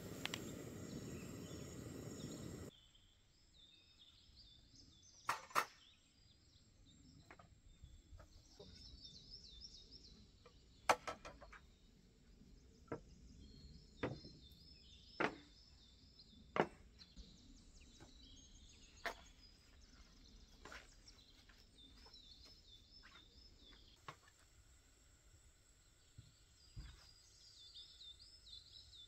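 Quiet outdoor ambience: a loud rushing noise cuts off suddenly about three seconds in, then high chirping calls repeat in the background while a dozen or so sharp clicks and knocks sound at irregular intervals.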